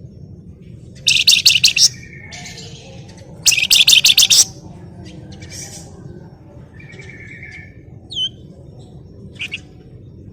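Flamboyan songbird singing: two loud bursts of rapid, stuttering repeated notes, each about a second long, with short chirps and a few brief whistled notes between and after them.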